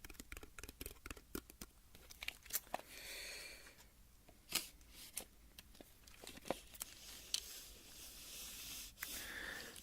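Tape measure being tapped and handled: sharp clicks every second or two, with two short rasping sounds, one about three seconds in and one near the end.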